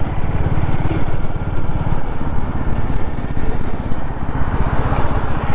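Royal Enfield Classic 350's single-cylinder engine running under way, its exhaust beating in a steady, even pulse, with wind noise on the microphone.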